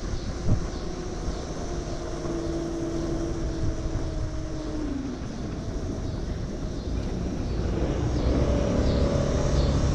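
Wind and road noise of riding an electric moped in traffic, with a steady whine that falls in pitch about five seconds in and a higher whine near the end.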